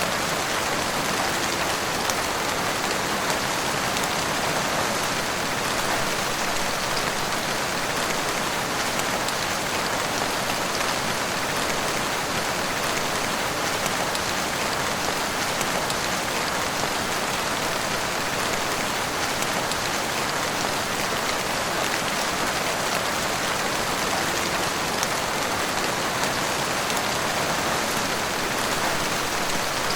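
Heavy rain falling steadily, an even, unbroken hiss of dense drops.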